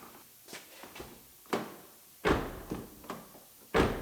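A string of sharp, irregular knocks and clunks from handling a car door on its hinges. The loudest come about halfway through and near the end.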